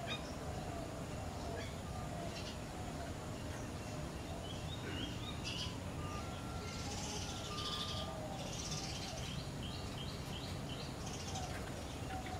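Several birds calling in a garden: harsh, raspy calls a little past the middle, then a quick run of short chirps, with other brief calls throughout over a steady low background hum.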